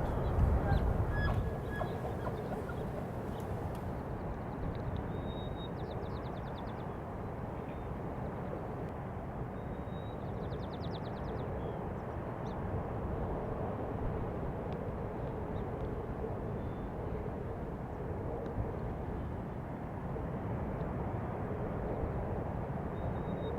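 Outdoor field ambience: a steady low rush, with a short high buzzy trill that comes back every five seconds or so.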